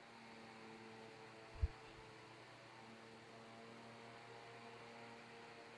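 Near silence with a faint steady electrical hum, broken once by a soft low thump about a second and a half in.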